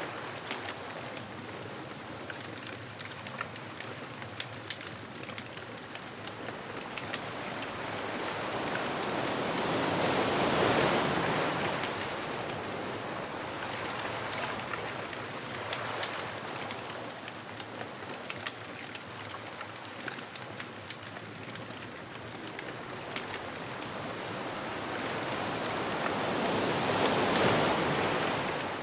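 Ocean waves washing ashore, the surf swelling loudly twice, about ten seconds in and again near the end, over a steady hiss. Small sharp crackles and pops run through it, from a beach bonfire burning.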